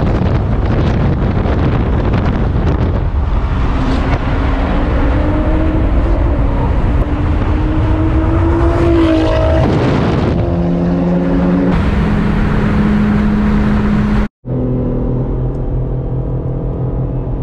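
Car engine under acceleration: its pitch climbs for several seconds, drops sharply about ten seconds in as it upshifts, then holds steady. After an abrupt cut near the end it runs at a steady, lower drone.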